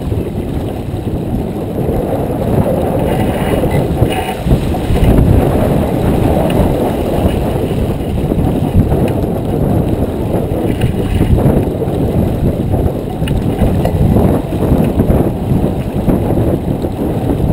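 Wind buffeting the microphone aboard a J24 sailboat under way: a loud, gusting low rumble.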